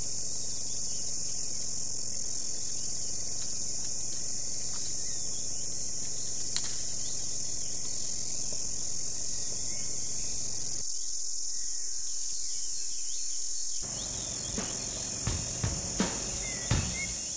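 Steady high-pitched trilling of an insect chorus. Near the end a few sharp drum hits begin.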